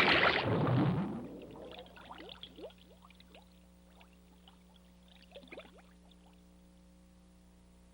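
Cartoon water sound effect: a loud rushing splash in the first second that dies away, then faint scattered bubbling over a low steady hum.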